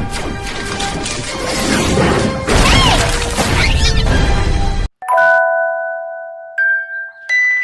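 A loud, dense jumble of sound cuts off abruptly, followed by clear ringing chime notes: a two-note ding-dong that leads into a short glockenspiel-like melody.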